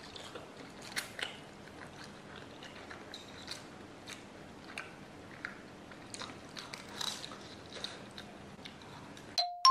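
Quiet chewing and biting of fried instant noodles eaten with chopsticks, with small scattered clicks. Near the end a run of bright, quickly repeating chimes comes in.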